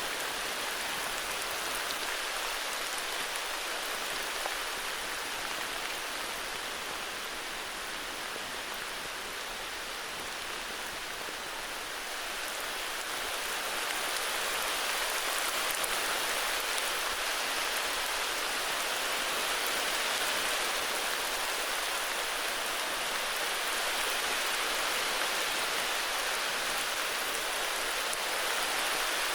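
Heavy rain falling steadily: a dense, even hiss of many drops, swelling slightly about halfway through.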